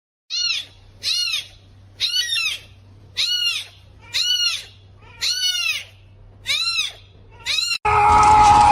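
An animal calling over and over, about one call a second, each a short high call that rises and falls in pitch. Near the end a loud, noisy sound cuts in.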